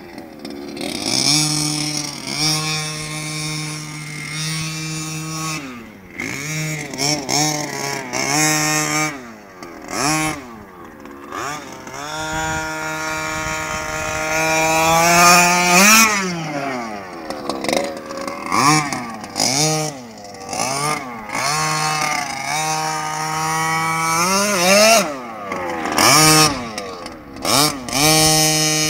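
Small two-stroke gasoline engine of an HPI Baja 5SC SS 1/5-scale RC truck running, holding a steady idle for stretches and repeatedly revved up and back down with throttle blips, one long climbing rev about halfway through.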